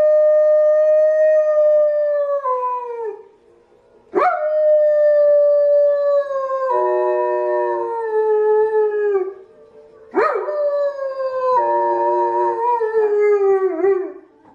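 Dogs howling in long drawn-out howls, each sliding down in pitch at its end. Three howls, the second and third each starting with a sharp rise. A second, lower howling voice joins partway through each of the later two.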